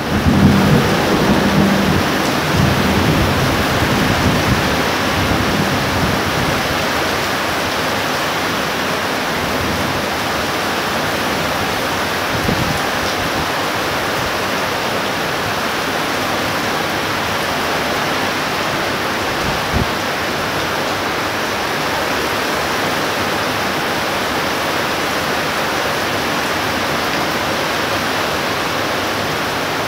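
Heavy thunderstorm rain pouring down in a steady, loud hiss. The low rumble of thunder dies away under it over the first several seconds.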